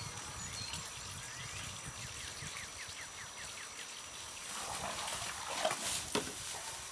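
A bird's run of about eight quick chirps, then rustling with two sharp knocks near the end.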